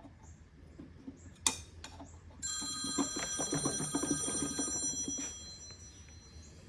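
A phone ringing: one ring of about three seconds that starts about two and a half seconds in, preceded by a single sharp knock.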